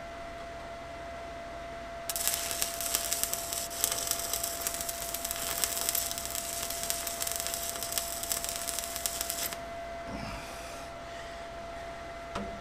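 Stick welder arc crackling for about seven seconds. It strikes about two seconds in and cuts off suddenly as a short weld is laid.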